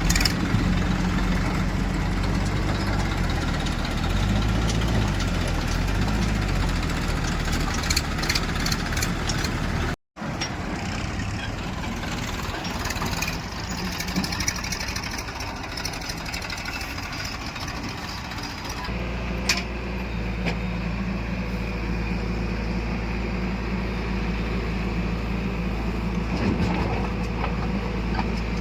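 A heavy diesel engine of working machinery runs steadily, its pitch shifting under load in the first part. The sound drops out for a moment about a third of the way in, and a different steady engine note takes over about two-thirds of the way through.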